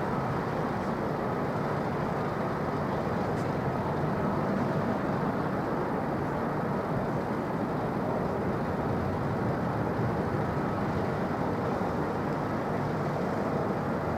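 Steady, even rumble of distant jet aircraft engine noise.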